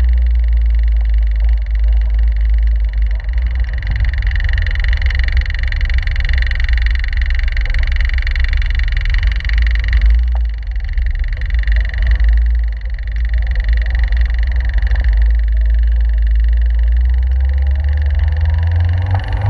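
Caterham 7's engine running at low revs as a deep, steady rumble heard from the open cockpit while the car cruises slowly. The sound dips briefly about halfway through at a gear change.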